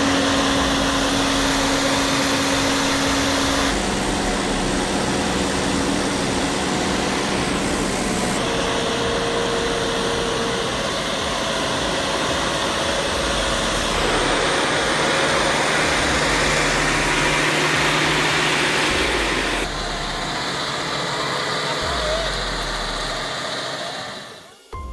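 Tractor and heavy-machinery diesel engines running hard, in a string of short clips that cut abruptly every few seconds, with voices faint in the mix.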